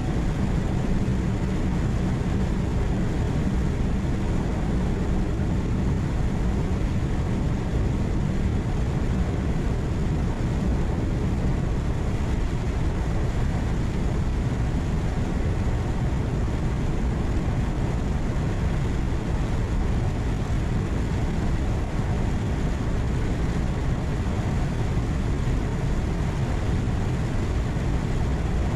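Steady drone of a truck's engine and tyre and road noise heard from inside the cab while driving. A low hum within it fades out about nine seconds in.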